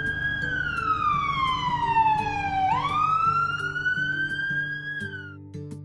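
Wailing siren sound effect for the ambulance: one long tone that falls slowly in pitch for about two and a half seconds, then sweeps quickly back up and fades out about five seconds in. Background music plays underneath.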